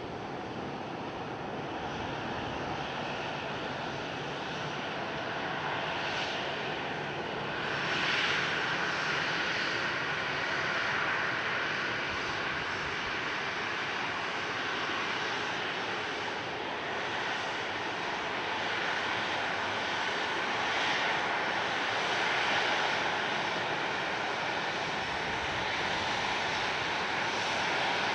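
Airliner engines running with a steady rush that slowly grows louder.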